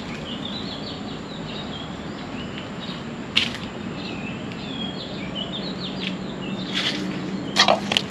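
Birds chirping in a long, quick series of short high calls over a steady background hiss, with a few sharp clicks, the loudest near the end.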